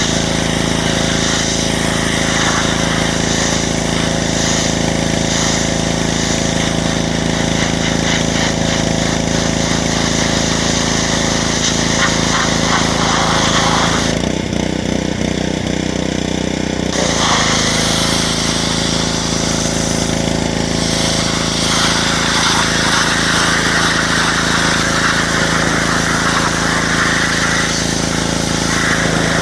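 Pressure washer running steadily with its spray hissing. The spray cuts out for about three seconds near the middle and then starts again, while the washer's motor hums on.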